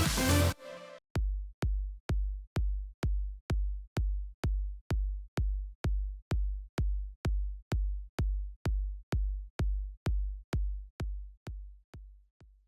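Electronic music cuts off about half a second in. A lone drum-machine kick drum then beats steadily about twice a second and fades out near the end.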